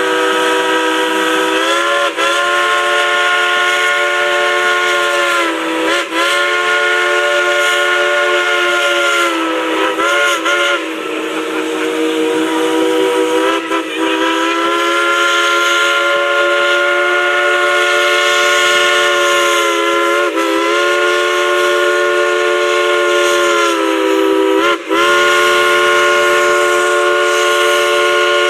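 Steam whistle of Dollywood Express Engine 192, the 1943 steam locomotive Klondike Katie, played as a tune. It sounds a loud, sustained chord of several tones in long held blasts, and the pitch swoops at about six brief breaks as the whistle valve is eased and reopened.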